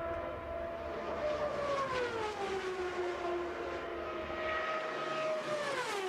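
IndyCar's turbocharged Ford-Cosworth V8 running flat out at speed. Its steady high engine note drops in pitch twice, once about a second in and again near the end.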